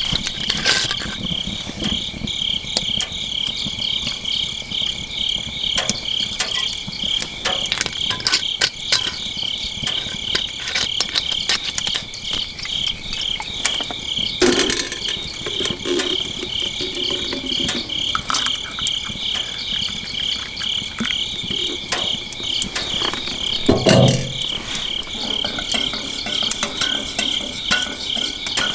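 Crickets chirping in a steady, pulsing chorus, over the small sharp pops of a crackling wood fire. Two louder, duller knocks come about halfway through and near the end.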